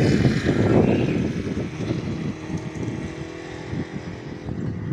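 A low rumble, loudest in the first two seconds and then easing, with the faint steady drone of a distant train coming in about halfway.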